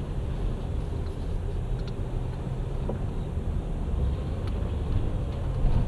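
Steady low rumble of engine and road noise heard from inside a car's cabin while driving.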